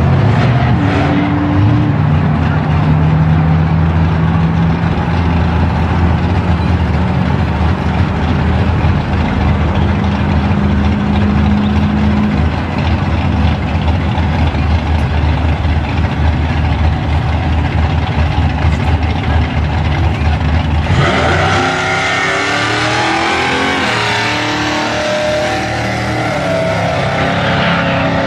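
Car engines running loud and steady, their note holding and stepping up in pitch. About three-quarters of the way through, the sound changes abruptly to a thinner engine note that rises and falls.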